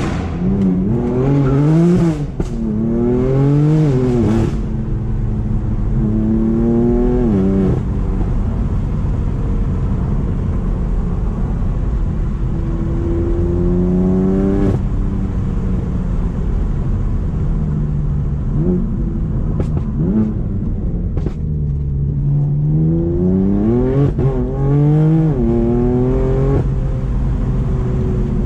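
BMW M4 twin-turbo straight-six running through a straight-piped, decatted Akrapovic exhaust, pulled hard several times. Each pull rises in pitch and drops at the upshifts, with steadier running between the pulls.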